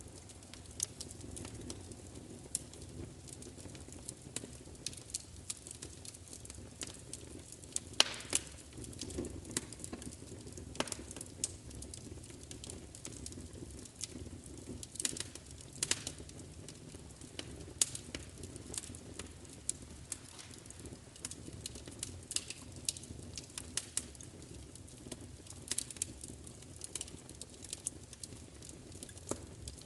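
Wood fire crackling: irregular sharp pops and snaps, a loud one about eight seconds in, over a steady low rumble of the flames.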